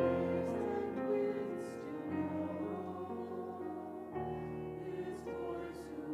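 Slow choral church music: held chords that change about every two seconds over a steady low bass line.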